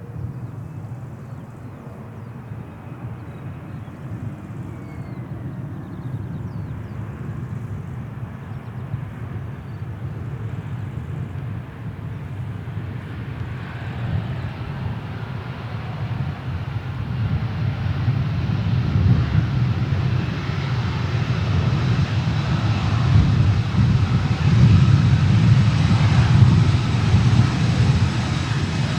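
Jet airliner's engines rumbling and growing steadily louder as the aircraft approaches, loudest in the last few seconds.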